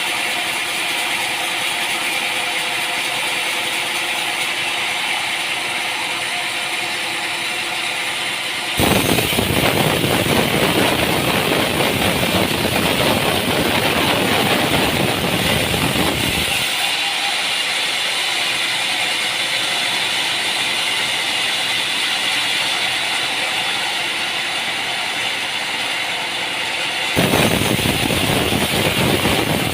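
Sawmill machinery running with a steady mechanical noise. It changes abruptly about nine, seventeen and twenty-seven seconds in, and is louder and fuller in the middle stretch and near the end.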